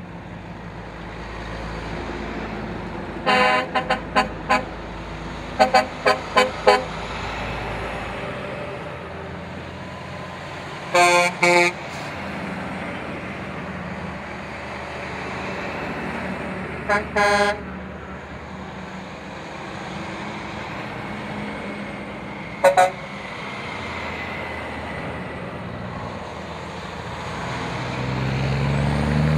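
Tow truck horns honking in groups of short toots, a few seconds apart, over the steady rumble of truck engines. Near the end a truck engine grows louder.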